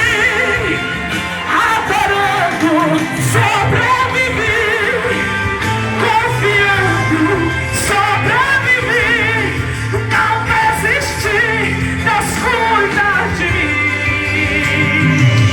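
A female singer singing a Christian gospel song in Portuguese with strong vibrato, over a band accompaniment.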